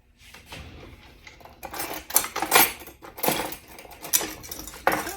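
Irregular clattering and scraping of a plastic food processor bowl, its lid and a utensil being handled, with no motor running.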